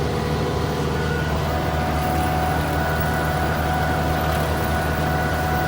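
Tractor engine running steadily under a batwing mower, with a steady whine coming in about a second and a half in.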